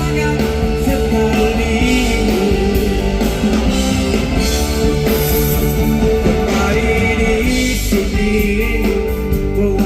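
Live rock band music with guitar, amplified through a PA, with some singing over it.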